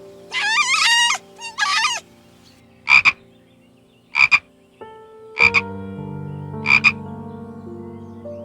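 A frog croaking four times, about a second and a half apart, each croak a quick double pulse, over sustained background music tones. It follows a few high, wavering animal calls in the first two seconds.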